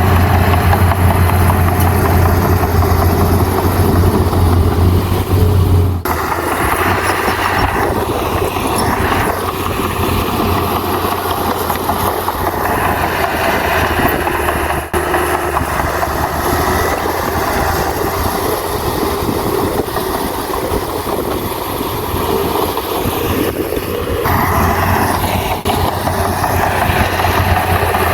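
Heavy construction machine's diesel engine running steadily, the sound changing abruptly about six seconds in and again near the end.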